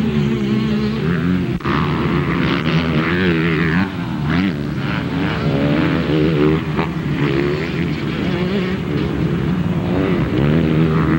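Several motocross bikes' engines revving at once, their pitches rising and falling and overlapping as the bikes race around the track.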